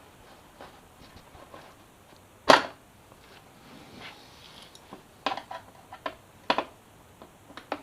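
Scattered sharp clicks and taps of tools and screws against a plastic motorcycle fairing panel as a side upper cowling is screwed on. The loudest knock comes about two and a half seconds in, with a run of smaller clicks in the second half.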